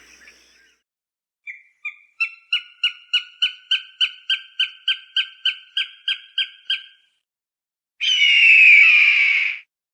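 Falcon calls: a rapid series of short, sharp cackling notes at about three a second lasting some five seconds, then after a short pause one long, harsh scream, the loudest call.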